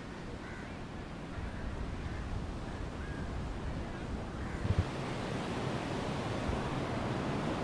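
Sea surf washing onto the beach, swelling louder from about halfway through as a wave comes in. There is a brief low knock just after the middle.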